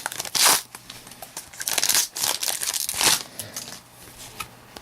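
A trading-card pack's wrapper crinkling and tearing as it is opened by hand, in several irregular bursts, the loudest about half a second in.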